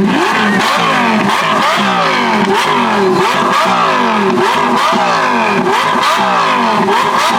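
A car engine revved hard in quick repeated throttle blips, the pitch rising and dropping again and again in a steady rhythm.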